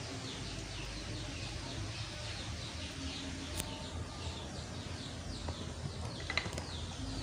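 Birds chirping: many short falling chirps, several a second, over a low steady background hum.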